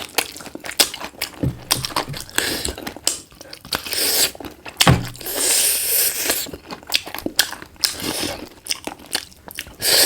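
Close-miked eating: chewing, biting and crunching of black chicken, with many quick wet clicks and a longer spell of loud crunching about halfway through.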